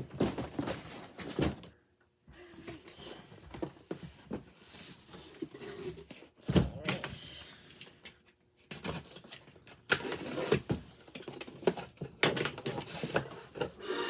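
Toy packaging and boxes being handled: irregular rustling, crinkling and light knocks in short bursts. The sound cuts out completely twice, briefly.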